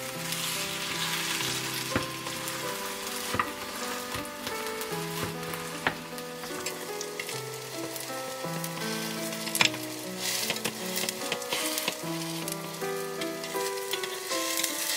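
Cabbage pancakes sizzling in oil in a nonstick pan, with a metal spatula pressing them down and tapping against the pan now and then. A soft melody plays underneath.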